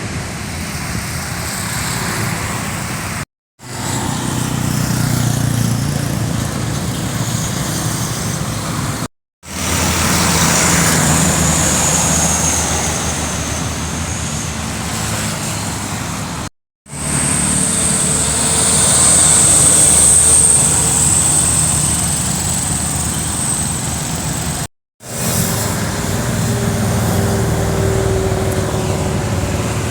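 Heavy diesel trucks running on an uphill climb, in five short clips separated by brief cuts to silence. A steady high whine sits over the engine sound in the middle clips.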